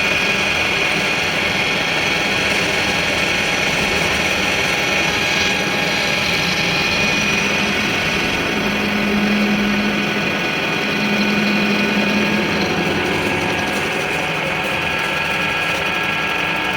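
A workshop machine running steadily, with a constant high whine over mechanical noise. A lower hum swells twice near the middle.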